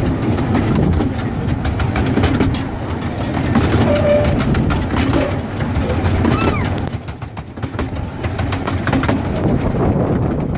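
Small-gauge railway train running along its track, heard from on board: a steady rumble with many quick clicks of the wheels over the rail joints, easing off somewhat about seven seconds in.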